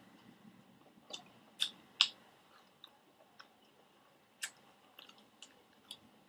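Close-up mouth sounds of a person chewing a bite of pizza, with scattered wet clicks and smacks, the loudest about two seconds in.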